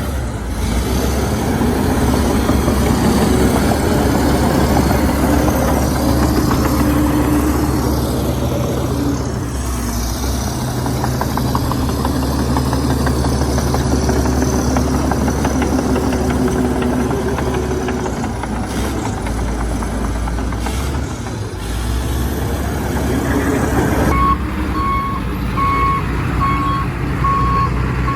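Heavy diesel engine of a bulldozer running steadily at work. Near the end a reversing alarm starts beeping in a steady on-off pattern over the engine.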